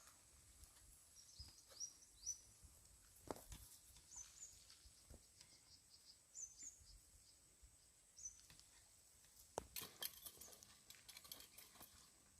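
Faint forest ambience in near silence: a small bird giving short, high chirps in little groups every couple of seconds. A few scattered clicks come through, with a cluster of them about ten seconds in.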